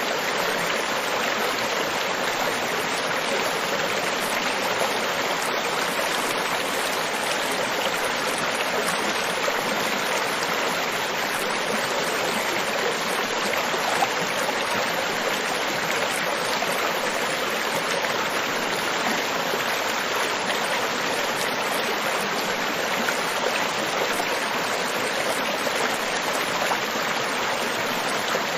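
Tropical beach ambience: a steady, even wash of water with no distinct swell of single waves.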